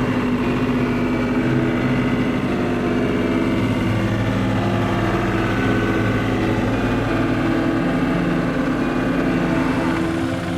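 Tractor engine running steadily, its pitch shifting slightly a few times.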